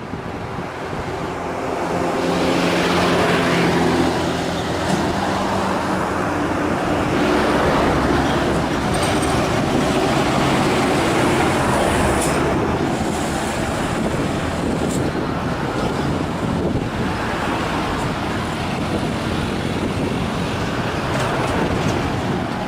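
Heavily loaded truck's diesel engine labouring uphill: a loud, steady engine note under a wide rumble that swells about two seconds in and holds.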